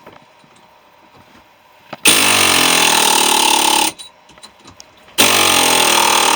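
Pneumatic air hammer (air chisel) firing in two bursts of about two seconds each, one about two seconds in and another starting about five seconds in, each starting and stopping suddenly as the trigger is pulled and released, cutting into a central air compressor housing. The tool seems short of air pressure to its user.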